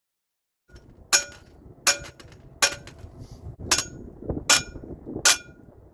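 Repeated sharp strikes on metal, about one every three-quarters of a second, each ringing briefly, with a low rumbling noise between strikes.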